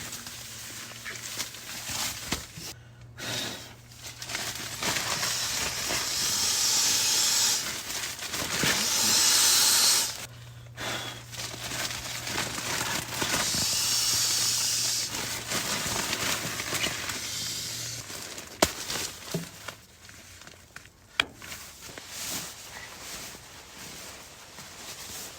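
Strong wind blowing in gusts, swelling to loud hissing peaks several times and easing off toward the end, with a few sharp knocks in the last third.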